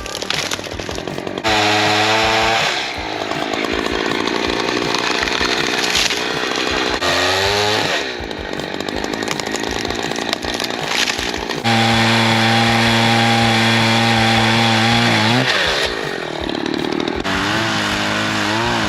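Husqvarna chainsaw cutting into a tree, revving up and down in several spells. The longest spell is a steady high-revving run about twelve to fifteen seconds in, which drops off before the saw picks up again near the end.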